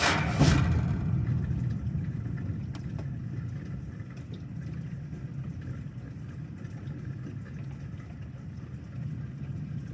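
Low thunder rumble, loudest just at the start and fading away over the first few seconds into a steady low background.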